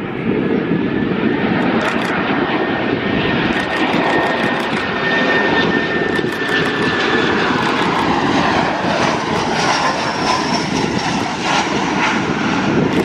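Fixed-wing aircraft engine noise, loud and steady, with a faint high whine that falls slowly in pitch around the middle.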